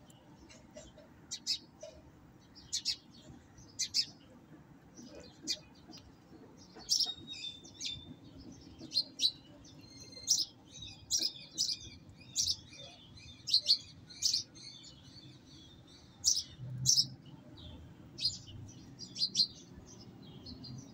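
Birds chirping: many short, sharp chirps, about one every half second to second, with a few longer whistled notes around the middle.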